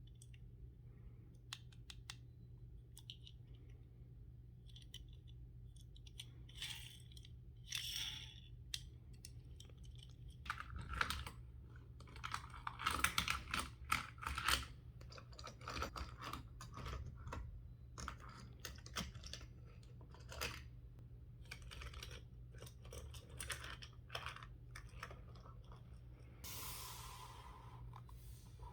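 Plastic and card packaging of die-cast toy cars being handled and opened: scattered clicks, taps and crinkles, busiest and loudest about halfway through.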